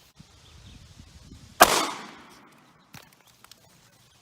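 A single 9mm pistol shot from a Taurus GX4 firing a 115-grain standard-pressure Barnes Tac XPD round, about a second and a half in. The sharp report fades out over about half a second. Faint low handling noise comes before it, and a few light clicks follow.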